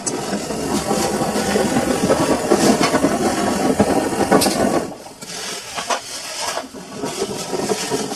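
Samsung washing machine running a full load: a steady churning noise with scattered clicks, dropping away briefly about five seconds in and again shortly before the end.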